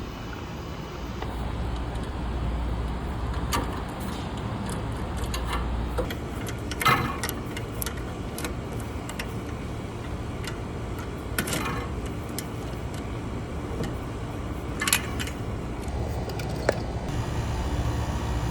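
Tubing cutter working around copper refrigerant lines, giving a sharp metal click or clink every three to four seconds, over a steady low rumble.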